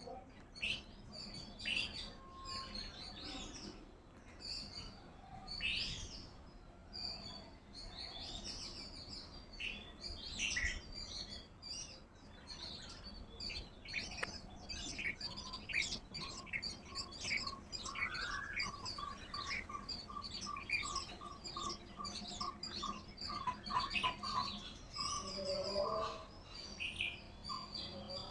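Several birds chirping and calling in quick, overlapping high notes. In the second half, a steady series of lower notes repeats about two or three times a second for several seconds.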